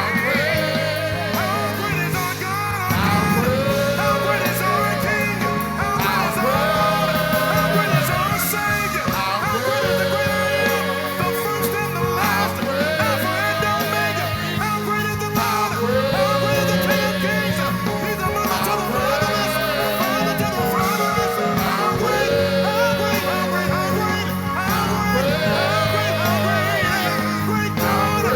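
Church worship song: a singer over a band playing sustained chords, the sung phrase sliding up into a held note and repeating about every three seconds.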